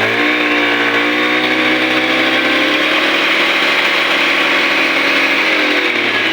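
Scooter engine revved up to full throttle and held there for about six seconds, the pitch climbing a little further, then dropping back toward idle near the end. It holds the revs steadily on its freshly cleaned Euro 4 carburettor, which the mechanic judges excellent for a Euro 4.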